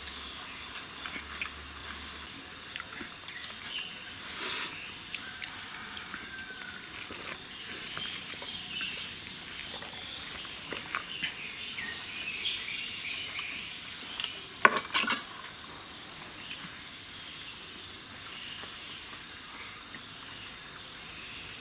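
Cutlery clinking and scraping on a plate or dish during eating, with a short scrape about a quarter of the way in and a quick run of sharp clinks about two-thirds of the way through.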